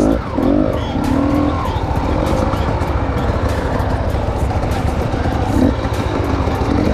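Enduro motorcycle engine revving, its pitch rising and falling for the first second and a half, then running steadily.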